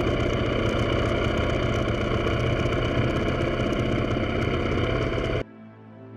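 Moto Guzzi Griso motorcycle engine running steadily with road noise, cutting off abruptly about five seconds in, leaving faint music.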